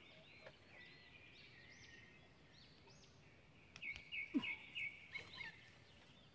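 Faint birdsong: short arching calls repeating, with a quick run of about five identical chirps a little past the middle, and a couple of soft knocks just before it.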